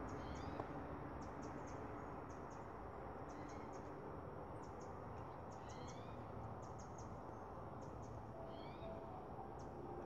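Outdoor ambience with birds chirping: short rising calls in twos and threes, several times, and clusters of quick, very high ticks, over a steady low hiss.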